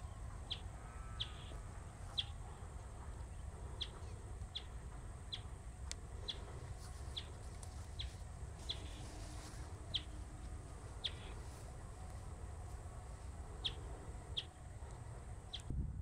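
Bristled grassbird calling: a series of short, high single notes, about one every half second to second, with a pause of a couple of seconds after the middle, over a steady low rumble.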